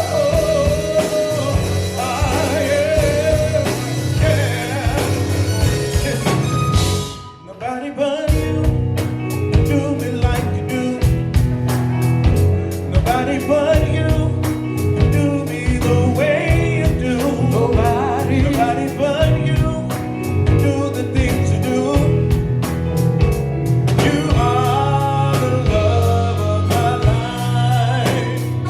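Live gospel quartet music: a lead voice singing over a band with a steady beat. About seven seconds in the music drops away for about a second, then comes back in.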